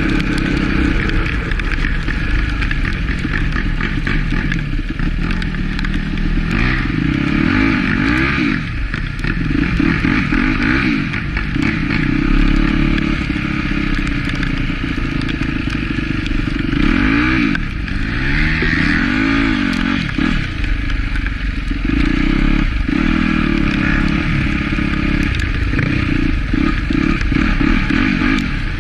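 Yamaha YZ250F dirt bike's 250 cc four-stroke single being ridden, its engine revving up and falling back again and again as the rider works the throttle.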